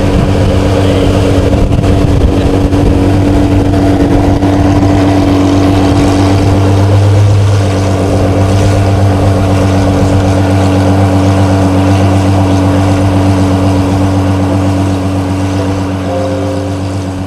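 De Tomaso P72's supercharged V8 running at a steady engine speed with no revving, its note easing a little about halfway through.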